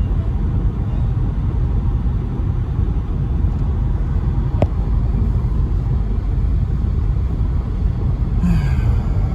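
Audi A6 driving at speed, heard from inside the cabin: a steady low rumble of engine and road noise. A single sharp click sounds about halfway through.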